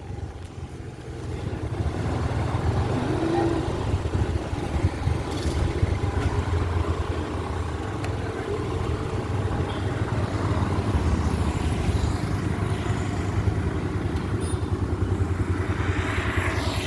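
Vehicle on the move: a steady low engine and road rumble with fast flutter.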